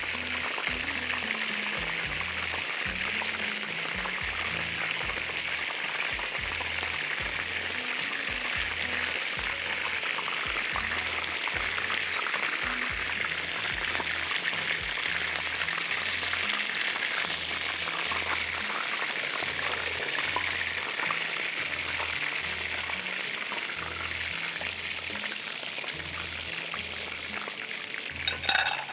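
Chicken kebab patties shallow-frying in hot oil in a pan, a steady sizzle, over background music with a steady low beat. A short clatter about a second before the end.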